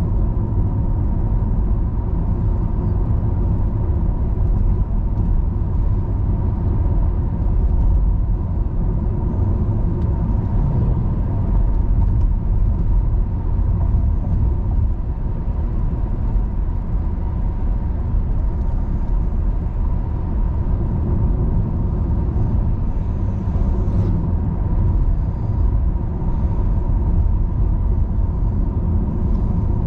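A car driving, heard from the car: a steady low rumble of tyres and engine with a faint steady hum over it.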